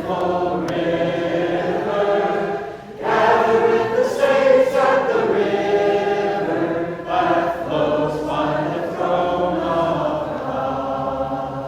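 A small group of singers singing a song together, held sung notes with a short breath about three seconds in; the singing tails off at the very end.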